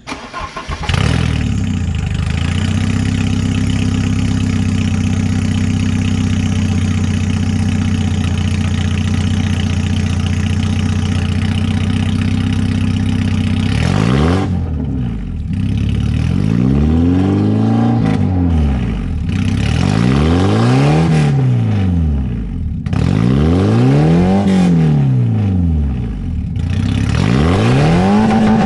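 Straight-piped 1989 Porsche 944's 2.7-litre four-cylinder engine starting about half a second in and settling into a steady idle. From about halfway through it is revved five times, each rev rising and falling back to idle.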